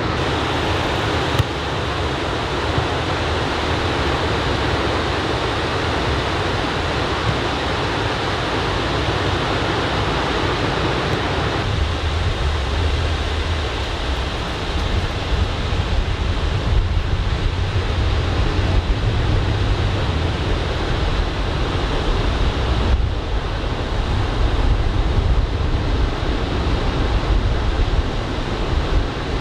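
Ocean surf from typhoon swell washing steadily onto a beach, with wind rumbling on the microphone that grows heavier about twelve seconds in.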